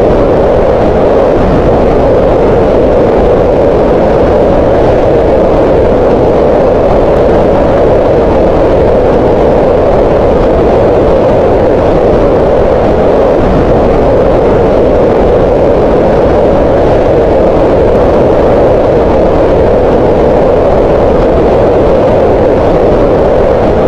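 Green noise: a steady, unbroken hiss of synthetic noise centred on the middle range around 500 Hz, with little high treble.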